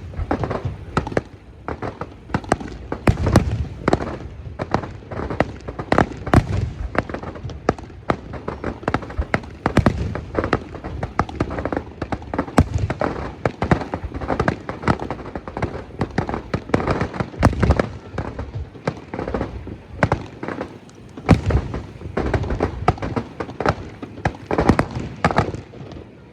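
Aerial fireworks display: a dense, continuous barrage of shell bursts and booms, several a second and overlapping, with sharper cracks among the deeper thuds.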